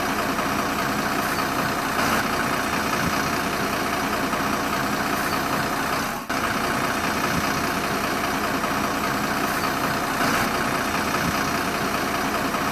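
Steady truck engine sound effect, idling and running evenly, with a brief dropout about six seconds in.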